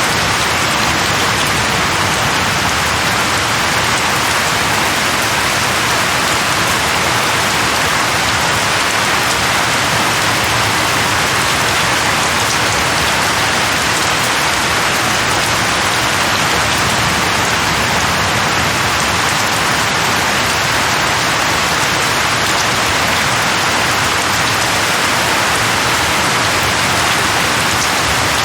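Steady, even rain falling on leaves, with no distinct drops or thunder standing out.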